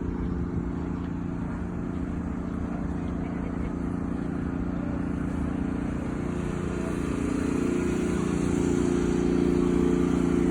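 An engine running steadily, a droning hum that grows slowly louder toward the end.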